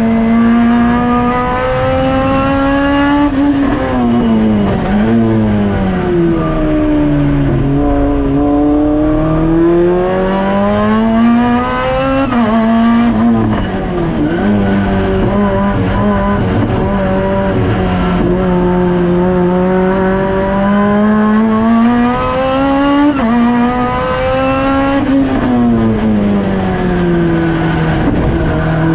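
Turbocharged Honda engine of a Lotus Exige track car running hard, heard from inside the cockpit: the engine note climbs steadily through the revs, drops sharply three times as the driver lifts and shifts for corners, then pulls up again.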